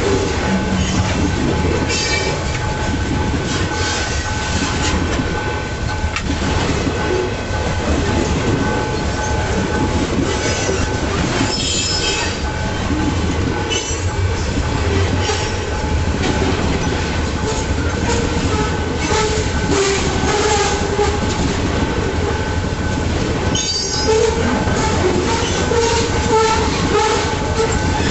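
Freight train rolling past, its wagon wheels clacking over the rail joints and squealing steadily against the rails.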